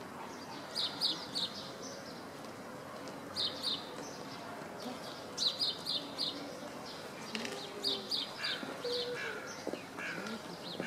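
Small birds chirping in quick bursts of three or four high notes, each burst repeating every couple of seconds over a steady murmur of background noise.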